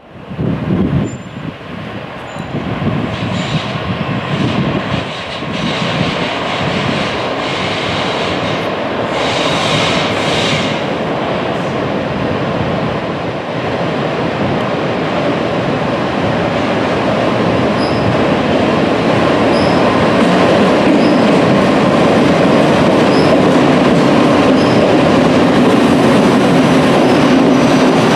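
London Underground engineering train hauled by battery electric locomotives running in on the rails, its noise growing steadily louder for about twenty seconds and then holding. There are faint, scattered high ticks in the second half.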